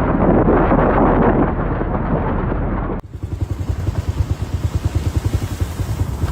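Strong wind rushing, cut off about three seconds in by a second stretch of wind with rapid fluttering buffeting on the microphone.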